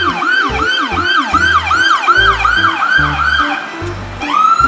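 Police-car siren yelping in fast falling sweeps, about three a second, then switching near the end to a rising wail that holds its pitch. A bass beat of background music plays underneath.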